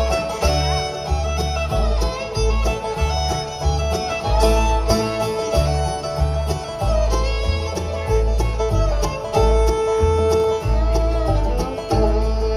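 Live band playing an instrumental break of a country song with no singing, melody lines over a steady, rhythmic bass.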